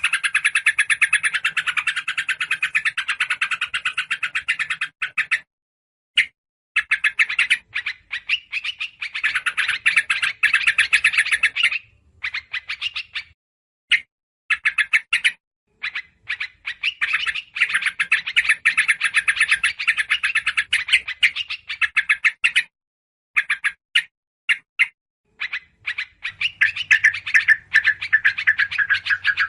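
Bird-lure recording of noisy, excited yellow-vented bulbul (trucukan) chatter mixed with other small birds: dense, rapid chirping in bursts, broken by several short silent gaps.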